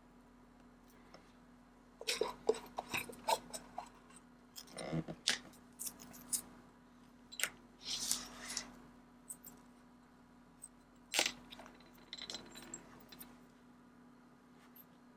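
Small metal clicks and taps of watchmaker's tweezers and tools on a watch movement and bench, scattered irregularly for about eleven seconds, over a steady low hum.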